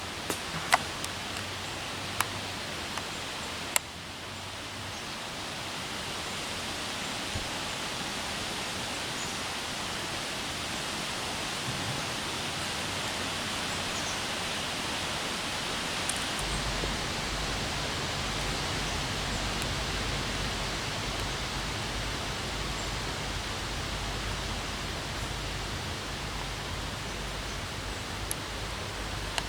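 Steady outdoor ambient hiss with no distinct source. There are a few sharp clicks in the first few seconds, and a low hum joins a little past halfway.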